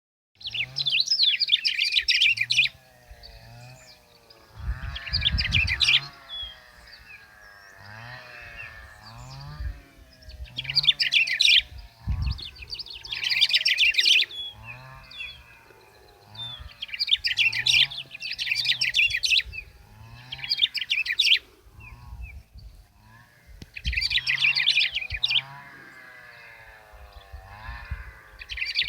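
Bico-de-pimenta (black-throated grosbeak) singing: loud phrases of rapid high chirps, each a second or two long, repeated every few seconds. A fainter lower repeating sound runs underneath.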